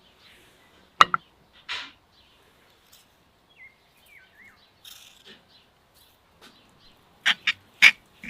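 A few sharp knocks or clicks: one about a second in and a quick run of four near the end, with a faint bird chirp in the middle.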